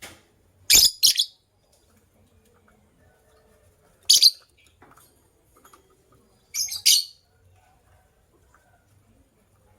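Lovebird giving short, shrill chirps: a quick pair about a second in, a single one around four seconds, and another pair near seven seconds.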